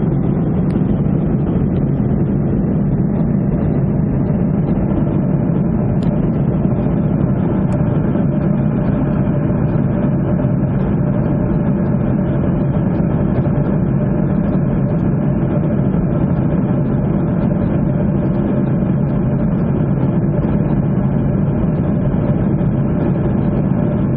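Jet airliner cabin noise in flight: a steady low roar from the engines and airflow, with a faint steady hum above it and no change in level.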